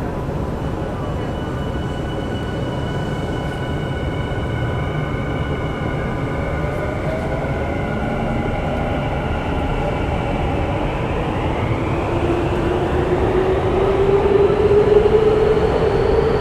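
Subway train running through a tunnel, heard from inside the car: a steady rumble of wheels on rail, with the electric traction motors' whine rising in pitch and getting louder over the last few seconds as the train picks up speed.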